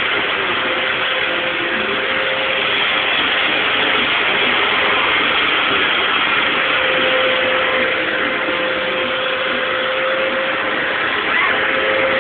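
Vacuum cleaner running steadily, a continuous rushing hiss with a faint steady whine.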